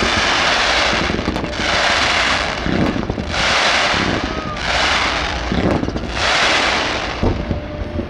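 Aerial fireworks going off in a series of crackling, hissing bursts, about one every second and a half and each lasting about a second, over a continuous low rumble.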